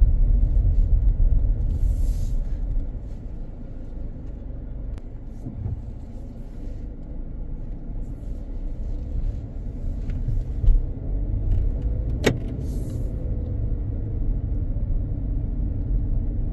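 Low rumble of a car's engine and tyres heard inside the moving vehicle, loudest for the first three seconds and then settling lower. A single sharp click sounds about twelve seconds in.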